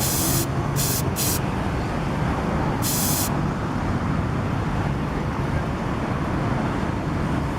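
Short hissing sprays from an aerosol can of cleaning liquid: three quick squirts in the first second and a half, and one more about three seconds in. Under them runs a steady low rumble.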